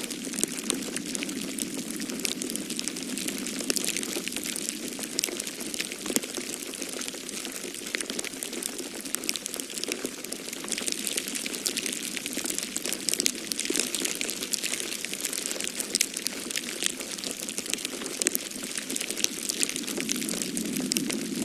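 Wood fire crackling in a fireplace, with frequent sharp pops and snaps over a steady rushing sound of storm wind that swells near the start and again near the end.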